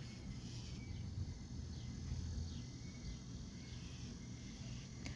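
Quiet outdoor ambience: a steady low rumble, with a few faint, short, high chirps scattered through it.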